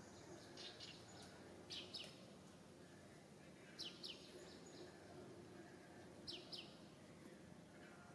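A bird calling faintly: pairs of quick, high, falling chirps, repeated four times about every two seconds, over faint steady background noise.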